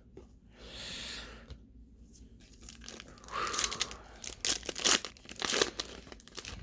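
A trading-card pack's wrapper being torn open and crinkled: a soft tear about a second in, then a run of sharp crackles from about three seconds in.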